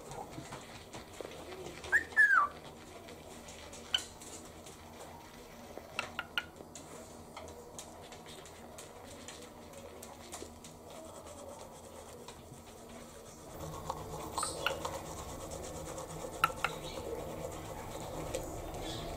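Cockatiel giving a short whistled call that bends in pitch about two seconds in, followed by scattered light clicks. A steady low noise comes in about two-thirds of the way through.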